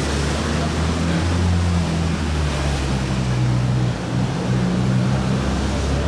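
Ferrari 458's V8 engine running at low revs as the car pulls slowly past, with a short drop in level about four seconds in.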